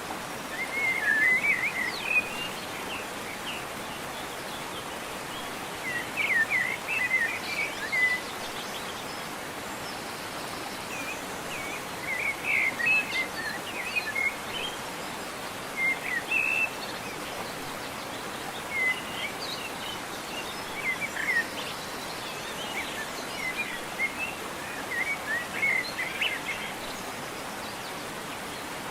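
Steady rush of a waterfall, with small birds chirping in short clusters of quick notes every few seconds.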